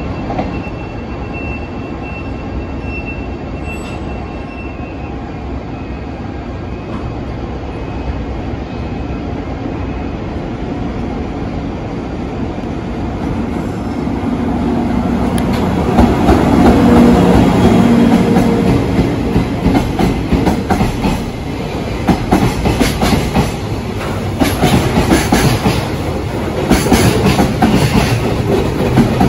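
JR Freight EF64 1000-series DC electric locomotive hauling a container freight train, approaching and passing. A steady rumble grows as the locomotive nears, swells to its loudest with a hum as it goes by a little past halfway, then gives way to the clatter of the container wagons' wheels over the rails.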